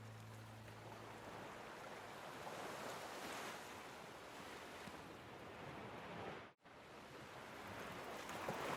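Ocean waves washing in, rising and falling twice, cut off abruptly for an instant about two-thirds of the way through.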